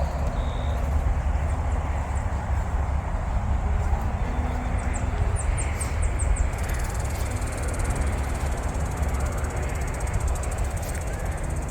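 Steady low rumble of wind buffeting the microphone, with a short run of high bird chirps about five seconds in.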